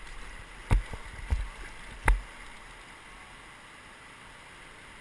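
Raft paddles taking two forward strokes: a few sharp knocks and splashes in the first two seconds, the loudest two about a second and a half apart, over the steady rush of river water.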